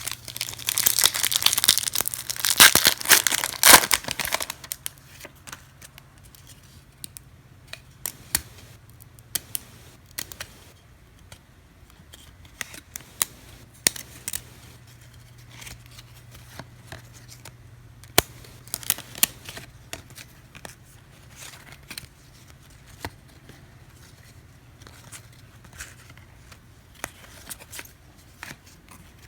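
Foil wrapper of a trading-card pack torn open with a loud crinkling rustle for the first four seconds or so, then soft, scattered clicks and flicks of cards being handled and flipped one at a time.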